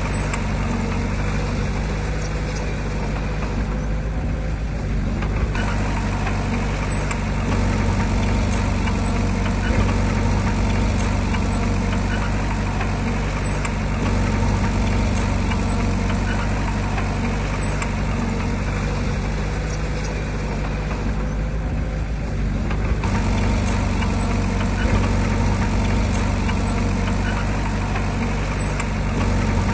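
Heavy diesel engine of earthmoving machinery running steadily, its sound strongest in the low range. The higher part of the noise falls away briefly twice.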